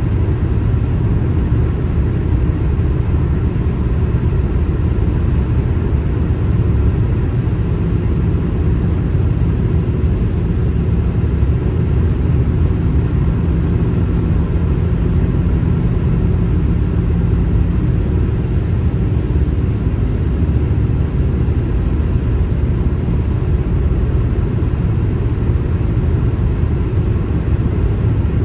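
Steady low rumble of a car travelling on a highway, the road and engine noise even throughout, with a faint steady hum joining for a few seconds near the middle.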